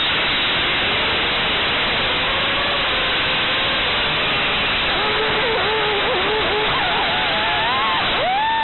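Loud steady hiss of prop wash and wind from a 5-inch FPV racing quadcopter with 2450 kV brushless motors. Under it is a faint motor whine whose pitch wavers with the throttle and climbs steeply near the end.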